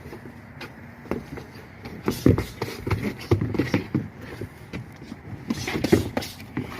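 Boxing gloves landing and thudding at an irregular pace, with feet shuffling and scuffing during a sparring round.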